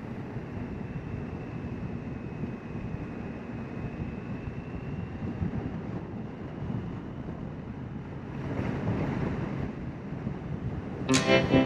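Yamaha FZ6's inline-four engine running at cruise under steady wind rush on the rider's microphone, with a faint steady whine. The rush swells for a second or two near the end, then acoustic guitar music comes in over it.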